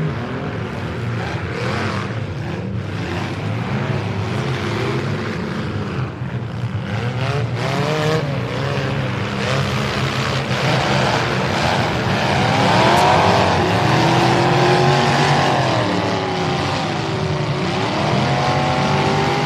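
Several mini truck engines revving hard at once in a demolition derby, their pitch rising and falling as they push and ram, with a few sharp impact knocks about six to eight seconds in.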